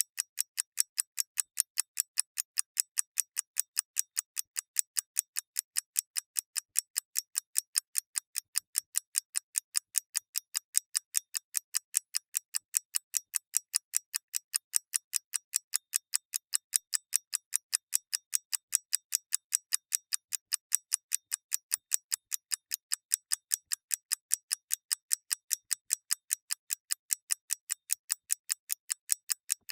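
Mechanical clock ticking steadily: crisp, even, high ticks, several a second, with nothing else heard.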